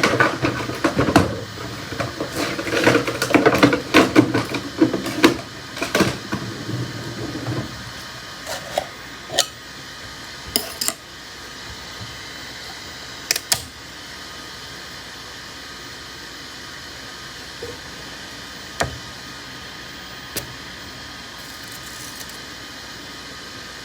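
Hard objects clattering and rattling as a drawer is rummaged through for several seconds, then a few separate clicks and knocks over a steady fan hum.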